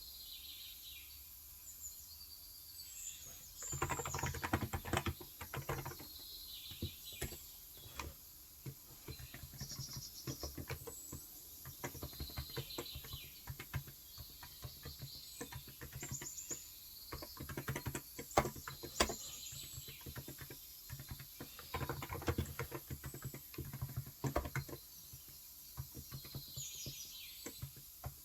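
Typing on a Cox Endeavour electro-capacitive (non-contact) 35 g tenkeyless keyboard in uneven bursts of keystrokes, starting about three and a half seconds in and busiest again past the twenty-second mark. Birds chirp throughout.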